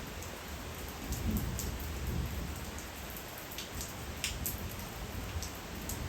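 Steady rain falling, with single drops striking a nearby surface in scattered sharp ticks.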